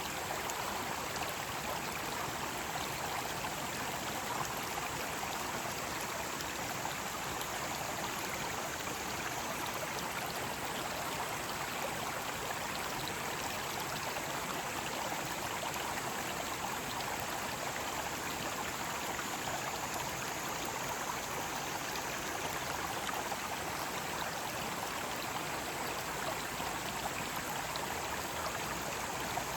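Mountain stream water rushing and splashing over rocks, a steady, unbroken sound.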